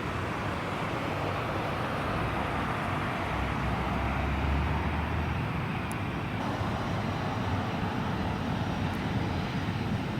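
Jet airliner engines rumbling in a steady broad roar, the deep rumble swelling to its loudest about four to five seconds in.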